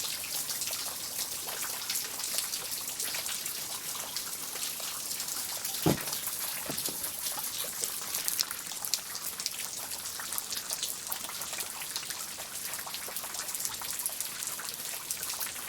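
Steady rain falling, with many separate drop ticks close by. A single dull thump about six seconds in, then a lighter one just after.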